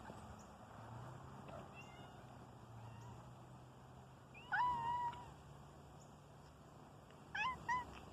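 Kittens meowing: a couple of faint calls early, one loud, drawn-out meow about halfway, and two short meows near the end.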